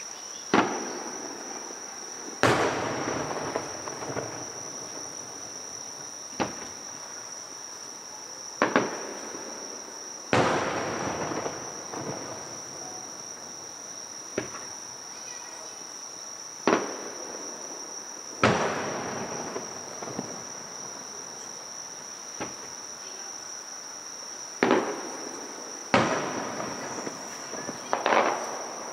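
Distant aerial firework shells bursting: about a dozen sharp bangs a few seconds apart, several followed by a long rolling echo. A steady high insect trill runs underneath.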